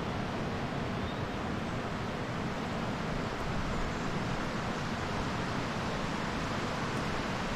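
Steady rushing of fast-flowing water, a beck or waterfall, as a constant even noise with no breaks.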